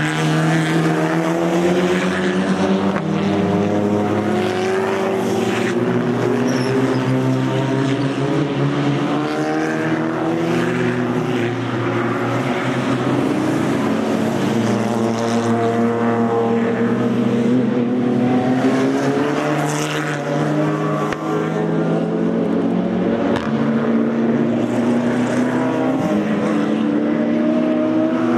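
Race car engines on open exhausts running loud and continuously, several at once, their pitch rising and falling as the cars pass one after another.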